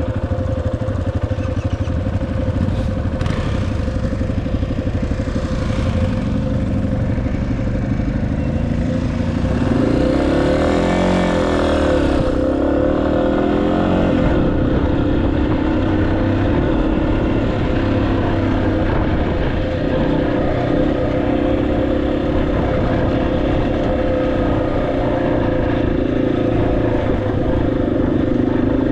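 Motorcycle engine running at speed while riding, with steady road and wind noise. From about ten seconds in, a second engine note rises and falls for a few seconds.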